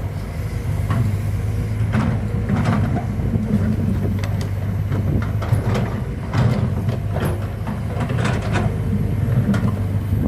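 Heavy construction machinery with a diesel engine running steadily, with irregular knocks and clanks over it.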